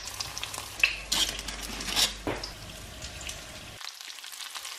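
Battered cauliflower pieces sizzling as they shallow-fry in oil in a pan, with a few sharp clicks of metal tongs against the pan as the pieces are turned.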